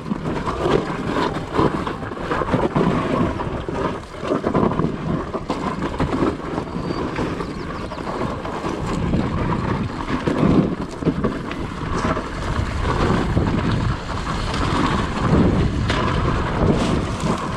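Dirt bike engine running under way, partly buried in heavy wind rumble on the microphone.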